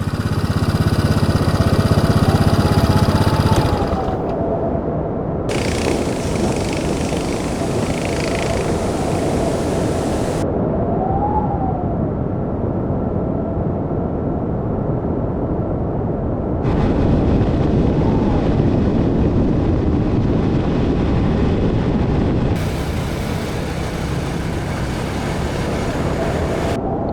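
Motorcycle running on the road with heavy wind noise, over several clips joined with sudden changes in tone; the engine pitch rises and falls briefly now and then.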